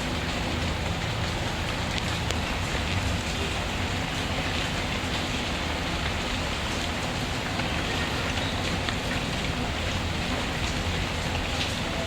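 Steady rainfall, an even hiss with scattered small ticks and pops, mixed with a crackling wood fire.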